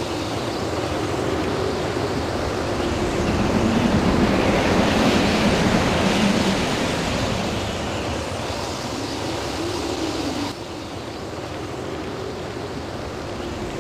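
Storm wind rushing in gusts from Hurricane Ike, a steady roar of noise that swells about four seconds in and eases off. It drops suddenly about ten seconds in, as at a cut.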